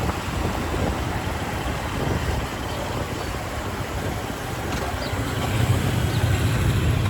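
Motorcycle riding through city traffic: steady engine and road noise, with a heavier low rumble building over the last couple of seconds.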